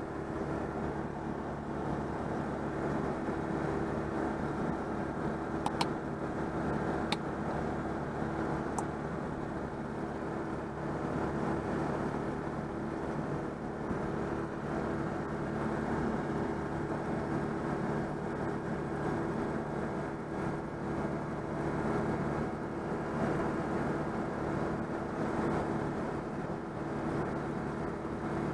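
Citroën 2CV's air-cooled flat-twin engine running steadily while the car is driven along, with road noise. A few sharp clicks come about six and seven seconds in.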